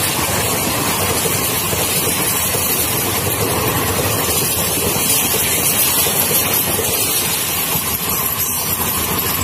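Passenger train coaches passing close at speed: a steady, loud rush of wheels on rail and moving air.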